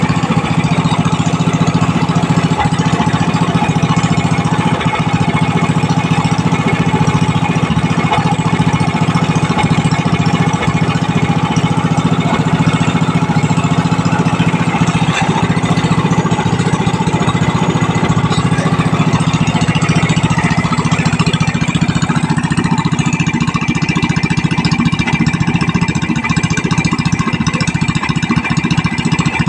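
18 hp Proquip gasoline engine running steadily. About twenty-two seconds in its sound changes slightly, with a thin higher tone coming in.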